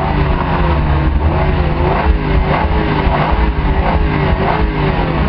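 Lexus SC 430's 4.3-litre V8 running hard on the move, loud and steady, its pitch wavering up and down with the throttle.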